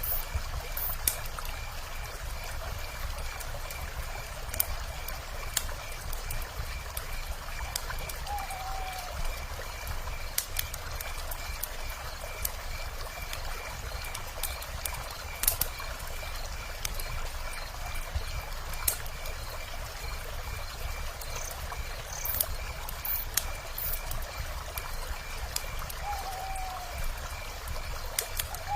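Wood fire crackling with scattered sharp pops over the steady rush of a river. An owl gives a short falling hoot three times: about eight seconds in, a little before the end, and again right at the end. A faint high chirp pulses evenly throughout.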